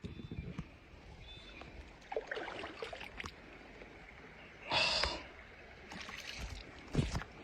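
Faint water sounds around a kayak as it is paddled towards the bank. A short hissing burst about five seconds in and a low thump near the end.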